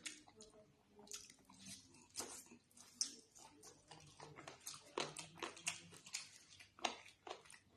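Close-miked eating: wet chewing and lip smacks with irregular sharp clicks, from a mouthful of chicken curry and rice.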